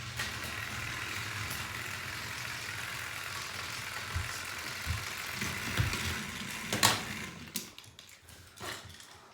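Small battery-powered toy train motors whirring steadily with gear noise. The whirr ends about seven seconds in, followed by a few sharp clicks and knocks.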